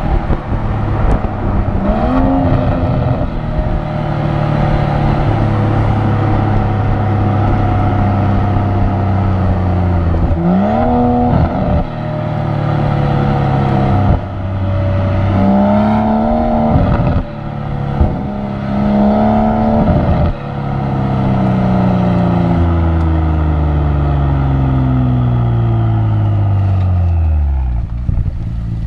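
2017 BMW X4 M40i's turbocharged straight-six running while driving: a steady engine note, broken several times by quick sharp rises and falls in revs. Near the end the note falls slowly and smoothly as the engine slows.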